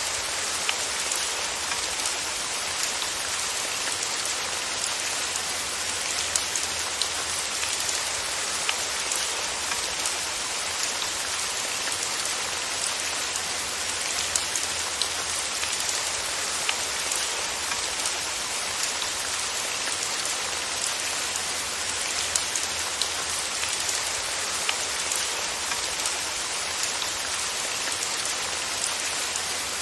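Steady rain falling on a surface, an even hiss with many small drops pattering through it.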